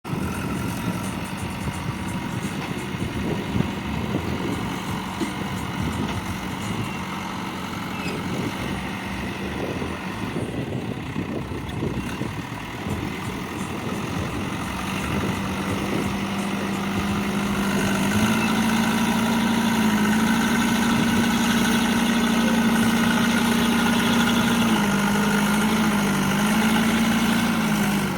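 Heavy diesel engine of a working machine running steadily, its speed rising about two-thirds of the way through and holding higher, with a couple of brief dips.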